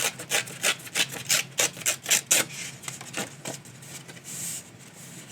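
Cardstock being torn by hand in a quick series of short rasping pulls, about five a second, then a softer rustle near the end, as a torn edge is made.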